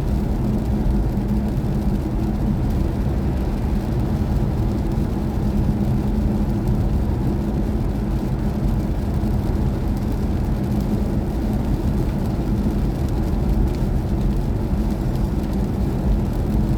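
Steady road and tyre rumble heard inside the cabin of a moving BMW i4 M50, a dual-motor electric car, with a faint low hum running under it.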